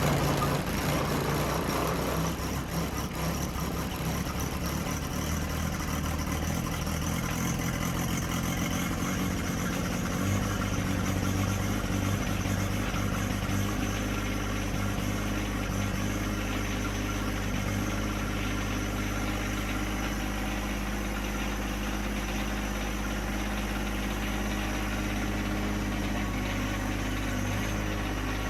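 John Deere 1025R compact tractor's three-cylinder diesel engine idling just after a cold start. It runs rough at first and settles into a steadier idle about ten seconds in.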